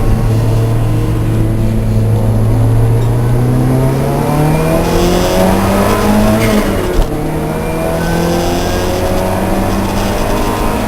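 Lancia Delta race car's engine under load: it holds steady revs, then climbs, drops sharply on an upshift about seven seconds in, and pulls again in the next gear.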